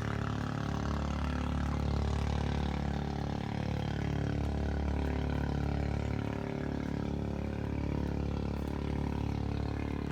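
Boat engine running with a steady, low drone that holds its pitch.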